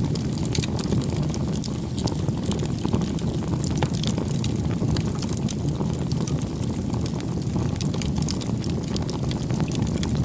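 Wood fire crackling: a dense scatter of small sharp pops over a steady low rumble.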